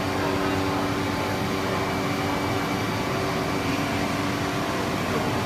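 CNC nesting centre running, a steady machine hum and whir with a couple of steady low tones held throughout.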